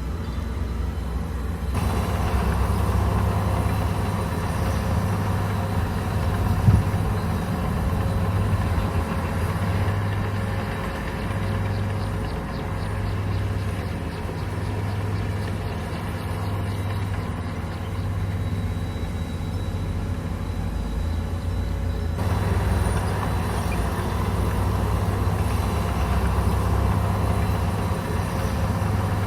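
Komatsu bulldozer's diesel engine running steadily under load, with a short knock about seven seconds in. The sound shifts abruptly twice, about two seconds in and again past twenty seconds.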